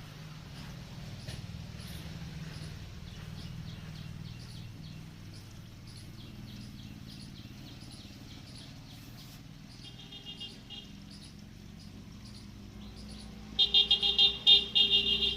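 Matchsticks in a chain catching one after another as a run of faint crackles over a low steady hum. Near the end comes a louder pulsing, chirp-like whistling sound.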